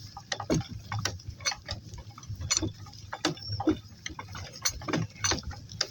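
Donkeys walking: irregular clicks and clinks, about two or three a second, from hoof steps and harness hardware, over a low steady rumble.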